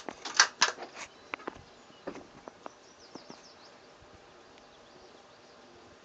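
Bolt of a bolt-action .22 rifle being worked between shots: a few loud sharp noises in the first second, then a string of light metallic clicks, over a faint buzz of insects.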